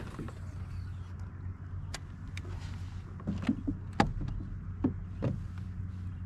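Boat motor running at a steady low hum, with a few scattered knocks and clicks of gear or hull in the middle of the stretch.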